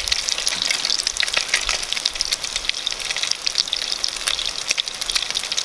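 Fish cakes frying in hot oil in a cast-iron Dutch oven: a steady sizzle with many small crackling pops.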